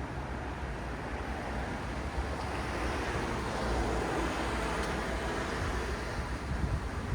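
City road traffic: a steady wash of tyre and engine noise with a low rumble, swelling as a vehicle passes about halfway through and easing off again.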